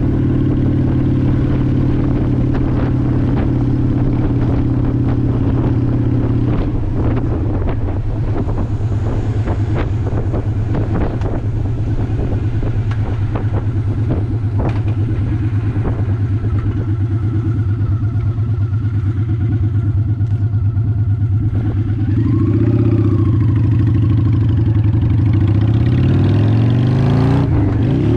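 2002 Honda Shadow ACE 750's V-twin engine running steadily, getting louder about six seconds from the end and rising sharply in pitch just before the end as it revs up.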